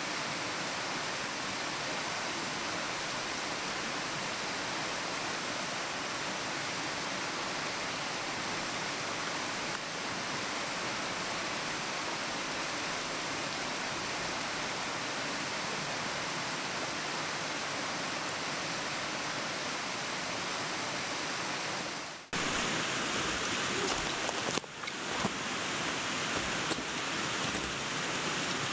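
Mountain stream rushing steadily. About 22 seconds in the sound cuts out for a moment and comes back a little louder, with low bumps and a few sharp clicks over the rushing water.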